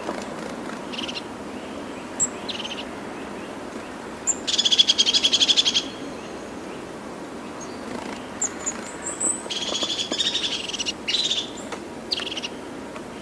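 Wild birds calling: a fast, high trill of rapid repeated notes lasting about a second and a half, given twice about five seconds apart, with short chirps in between, over a steady low background hiss.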